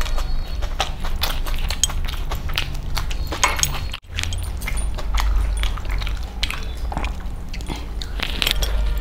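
A person chewing close to the microphone, with a quick run of irregular wet mouth smacks and clicks. The sound breaks off for an instant about four seconds in, then the chewing goes on.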